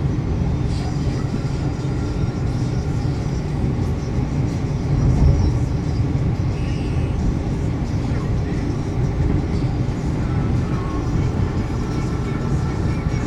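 MRT train running with a steady low rumble, swelling briefly about five seconds in.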